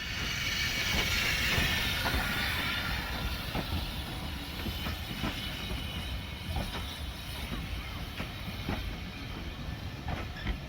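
Robert Stephenson & Co 0-6-0 steam locomotive and its coaches rolling slowly into a station. A hiss is loudest over the first few seconds and then eases, over a low rumble with irregular clicks and clanks from the wheels on the rails.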